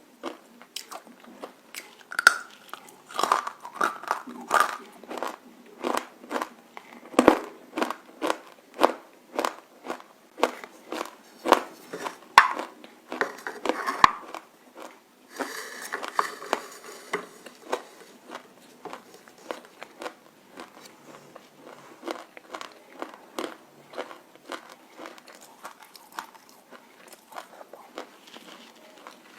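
Close-up crunching of roasted nakumatt being bitten and chewed with red clay paste: sharp, crisp crunches at about two a second, growing lighter in the second half.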